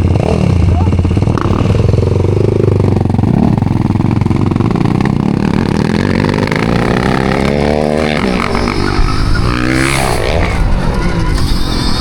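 Motorcycle engine running under way, its pitch sweeping up and down in the second half as the revs change.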